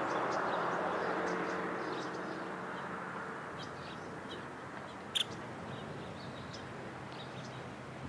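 Faint, scattered chirps of small birds over a steady background hiss, with one sharp tap about five seconds in.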